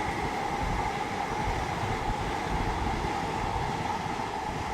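Passenger train passing on the line, a steady running noise with a held whine over it, easing off slightly near the end.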